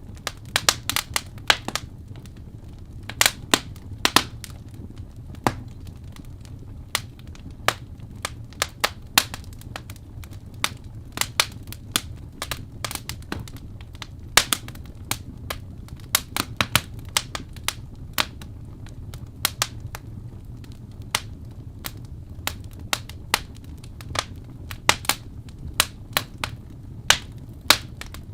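Wood fire crackling: irregular sharp pops and snaps, several a second at times, over a steady low rumble of the burning logs.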